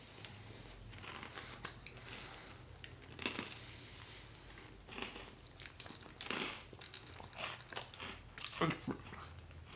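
Faint crinkling of a packaged ice cream sandwich's wrapper, with scattered bites and chewing as it is eaten.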